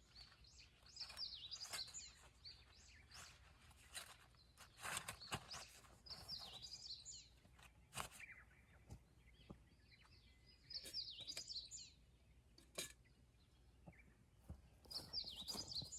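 A songbird singing a short phrase of quick chirps, repeated about every four to five seconds, faint, with scattered light clicks between the phrases.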